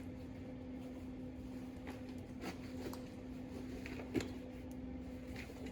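Steady electrical hum of an idling welding machine, with a few faint, short clicks scattered through it.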